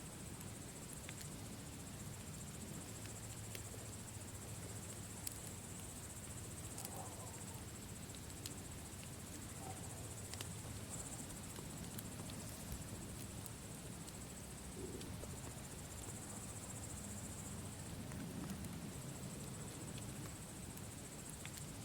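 Campfire burning, with scattered small crackles and pops over a low, steady rumble, and a steady high-pitched trill running underneath.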